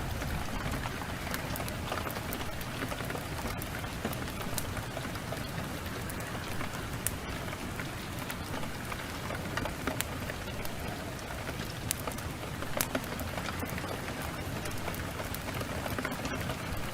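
Steady heavy rain with the sharp pops and crackles of a wood fire scattered through it, a few louder pops in the middle.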